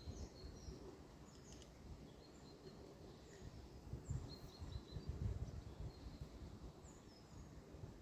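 Faint creekside ambience with scattered short, high bird chirps, and a low rumble that is loudest about four to five seconds in.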